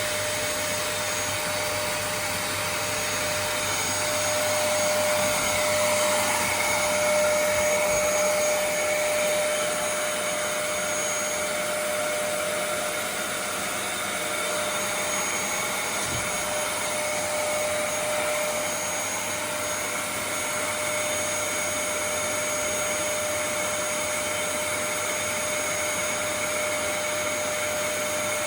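Vacuum cleaner running steadily, a constant rushing noise with a steady whine, swelling slightly a few seconds in.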